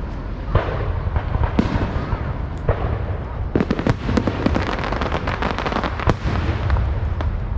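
Fireworks going off: a run of sharp cracks and bangs over a low rumble, coming fastest in a crackling cluster midway through.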